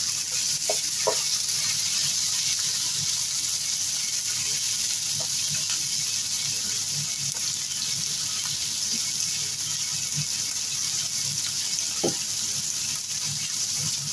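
Raw chicken pieces and sliced onions sizzling steadily in hot oil in a pan as the chicken sears, with a few faint pops.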